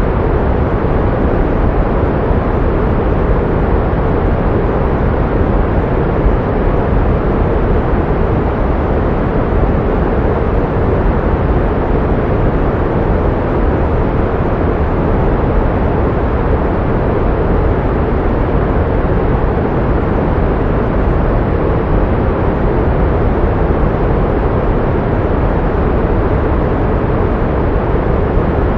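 Pink noise: a steady, even hiss, fuller in the low and middle range and rolling off toward the highs, with no change in level.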